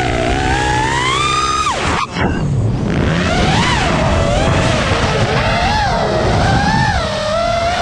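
Motocross dirt bike engine revving. The pitch climbs steadily, then drops sharply about two seconds in with a brief dip, then rises and falls repeatedly as the throttle is worked.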